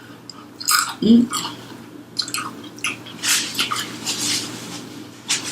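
Close-up eating sounds: wet, irregular mouth smacks and chewing, with a short voiced "mm" about a second in.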